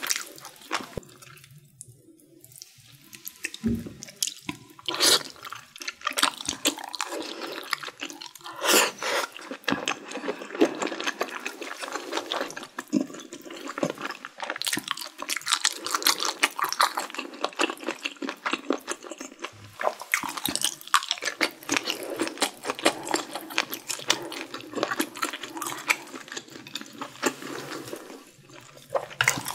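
Close-miked wet chewing and mouth smacking while eating saucy mala xiang guo: a dense run of sticky, wet clicks and squelches, sparse for the first few seconds, then almost continuous.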